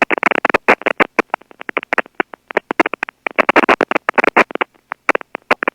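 Aircraft radio crackling and breaking up: rapid irregular clicks and short chopped bursts of static in the narrow radio voice band, like a garbled, broken-up transmission.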